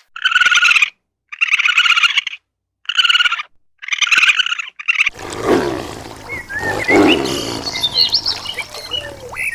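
A bird squawking harshly five times, each call under a second long. About halfway through, a cut to a large animal's deep, rumbling roar, with birds chirping faintly behind it.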